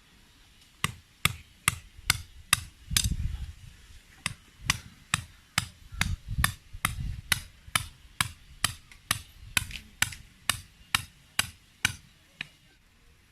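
Repeated sharp knocks of a tool striking something hard, about two and a half blows a second, in an even rhythm that stops shortly before the end.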